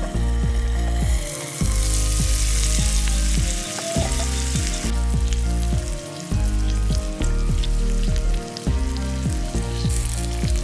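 Cubes of beef steak sizzling as they fry over the fire, the hiss swelling strongly for a few seconds and again near the end. Background music with a regular beat plays underneath.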